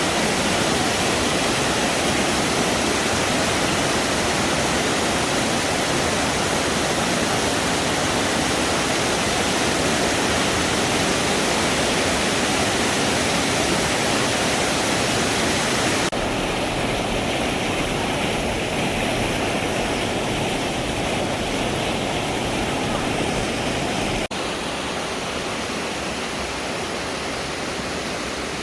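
Waterfall: a steady rush of falling water. The sound changes abruptly twice, about 16 and 24 seconds in, and is a little quieter after each change.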